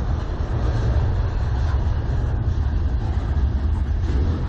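Freight cars of a CN manifest train rolling past, a steady low rumble of wheels on the rails.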